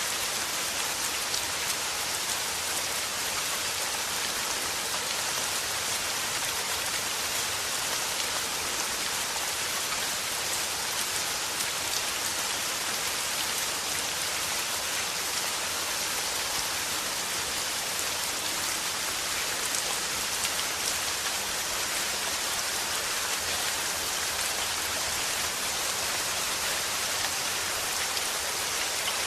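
Steady rain falling and pattering on a surface, an even hiss of many drops with no let-up.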